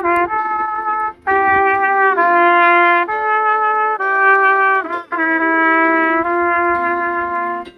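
Solo trumpet playing a slow melody in long held notes. It pauses briefly for breath about a second in and again around five seconds, then stops just before the end.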